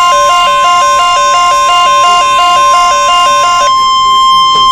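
NOAA Weather Radio alert: a steady, loud warning tone near 1 kHz, overlaid with a two-note electronic warble stepping rapidly up and down that stops about a second before the end, leaving the steady tone alone.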